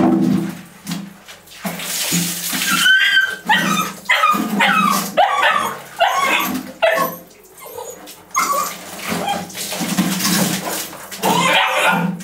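Puppies whimpering and yipping, many short high-pitched cries in quick succession.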